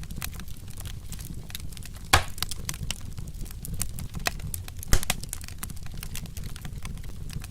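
Wood fire crackling with irregular snaps over a steady low rumble, and two louder pops about two and five seconds in.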